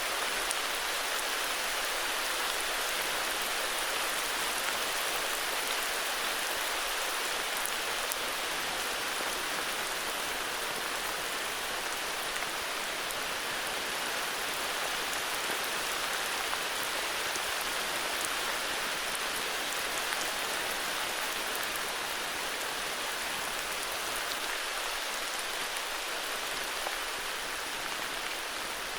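Steady heavy rain falling, an even hiss with scattered drop ticks.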